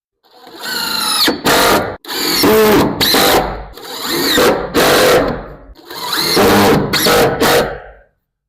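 Power drill driving screws to fasten wood boards together, in four separate runs, each motor sound rising in pitch as it speeds up.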